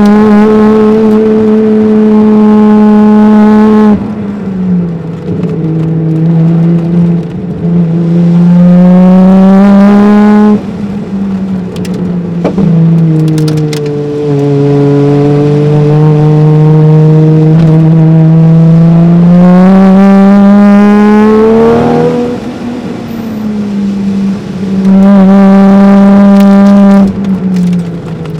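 Toyota 1JZ twin-turbo straight-six in a JZZ30 Soarer driven hard, heard from inside the cabin: the engine pulls at full throttle, its note climbing with the revs, then drops sharply as the driver lifts, several times. It lifts about four seconds in, climbs again and lifts around ten seconds in, makes a long pull that lifts about twenty-two seconds in, and gives one more short full-throttle burst near the end.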